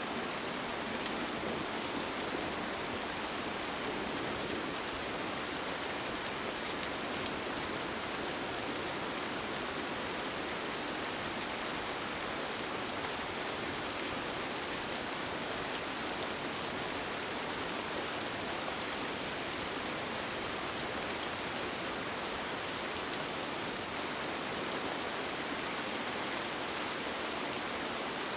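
Steady rain falling on a tent, a continuous even hiss with faint scattered drop taps.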